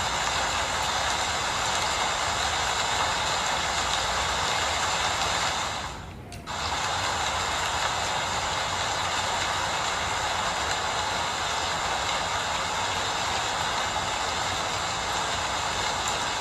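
Steady rainfall: a dense, even hiss of rain, with a brief dip in level about six seconds in.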